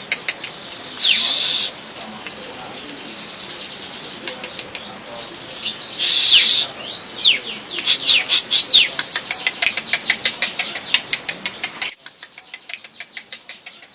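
Small cage songbird chirping in fast, repeated high arched and falling notes, with two short rushing bursts like wingbeats among them. About twelve seconds in the sound drops suddenly to faint, quicker ticking notes.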